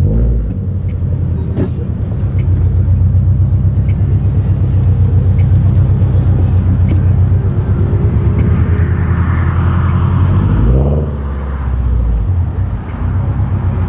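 Car engine and exhaust droning steadily while driving. About eleven seconds in, a short rising rev, after which the engine note drops.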